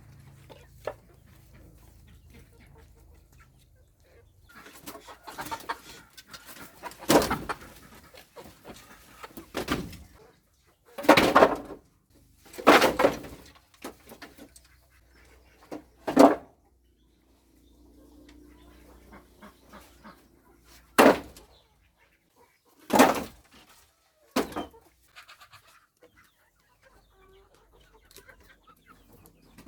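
Chickens clucking, with about eight loud, short noises spread through it.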